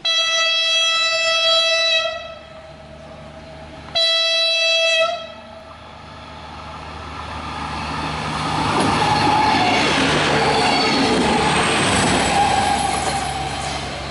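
Alstom Lint 41 diesel railcar sounding its single-tone horn: a blast of about two seconds, then a shorter one about four seconds in. The railcar then approaches, its engine and wheel noise growing louder from about six seconds in and staying loud.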